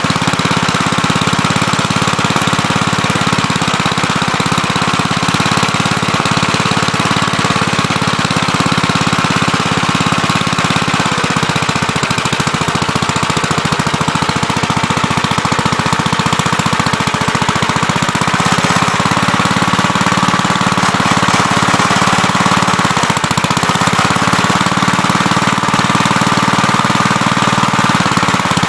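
Gravely Terramite backhoe's engine running steadily under load while digging, with a fast, even chug and a thin high whine above it that wavers slightly in pitch.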